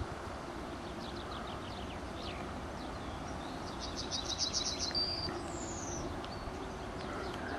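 Small birds chirping over a steady low rumble of background noise, with a quick run of about eight high notes around the middle.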